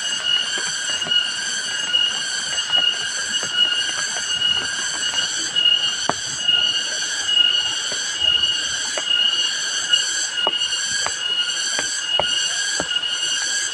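Forest insects buzzing in a high, steady chorus that swells and fades about twice a second, with scattered sharp ticks over it.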